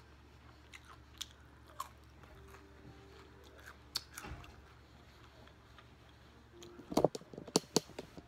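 Close-miked mouth sounds of someone chewing soft cauliflower-based food, with scattered wet clicks and lip smacks and a burst of louder smacks near the end.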